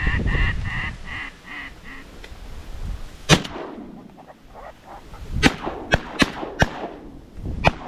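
A run of about seven duck quacks in the first two seconds. Then shotgun shots: one about three seconds in, followed by about five more in quick succession.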